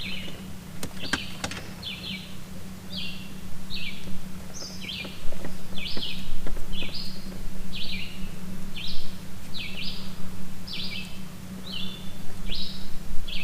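A bird calling over and over, short falling chirps about one and a half a second, over a steady low hum, with a few light clicks about a second in.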